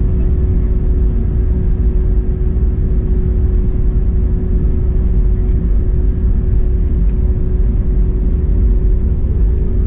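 Steady low rumble inside an Airbus A321neo cabin as the airliner taxis with its engines at idle, with a constant hum running through it.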